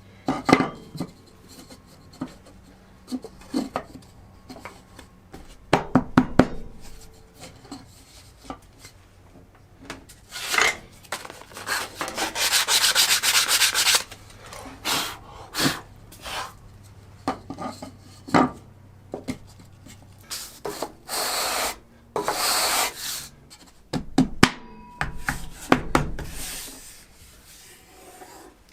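Wooden table saw insert plate being handled and fitted: scattered knocks and clicks of wood against the saw table, with two longer spells of rapid rubbing about halfway through and again later, as sawdust is cleared from the insert groove. A faint steady hum sits underneath for most of it.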